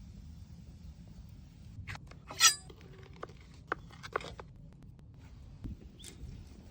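A sharp, ringing clink of hard gear being handled about two and a half seconds in, among several lighter clicks and knocks.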